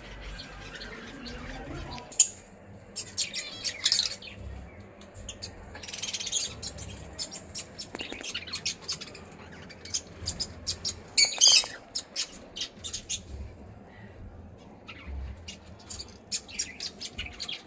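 Caged small parrots calling: a scatter of quick, sharp chirps and a few louder squawks, busiest around the middle of the stretch.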